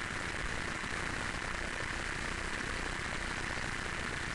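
Steady, even hiss with no distinct events: the recording's background noise.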